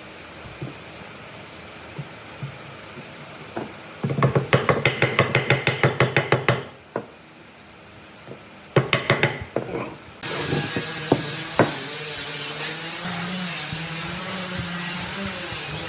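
Woodworking shop sounds: a few scattered knocks, then a fast run of sharp knocks on wood, about six or seven a second, lasting a couple of seconds, and a shorter run a little later. About ten seconds in, a power tool starts and runs steadily.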